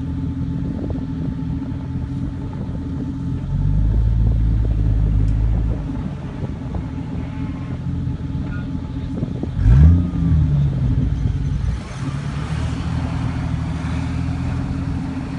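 Off-road 4x4 engine running steadily, pulling louder for about two seconds around four seconds in, then a quick rev that rises and falls about ten seconds in, followed by a spell of hiss.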